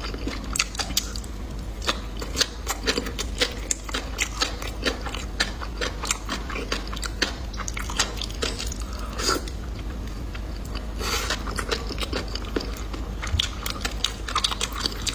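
A person chewing and biting crunchy food, with many crisp, irregular crunches.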